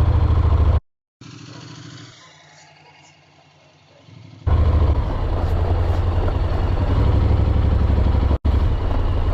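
Motorcycle riding noise, a steady low engine drone with wind and road rush. It cuts out about a second in, is much quieter until about four and a half seconds in, then returns at full level, with a brief dropout near the end.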